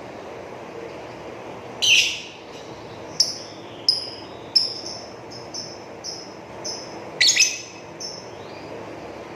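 Lovebird calling: a loud harsh call about two seconds in, then a string of short sharp chirps repeating roughly every half second, and another loud harsh double call a little after seven seconds.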